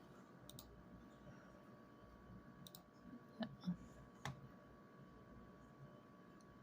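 Faint clicks of calculator buttons being pressed while a sum is keyed in, about five separate presses spread over several seconds.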